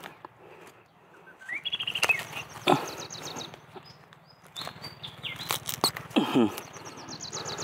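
Birds calling: several fast high trills and short rising and falling chirps, with a few sharp snaps or rustles in between.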